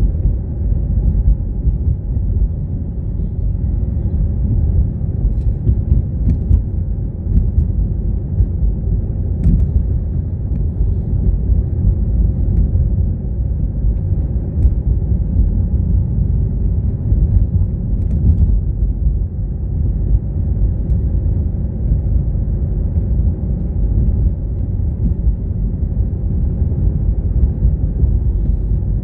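Car driving along, a steady low rumble of road and engine noise with a few faint ticks.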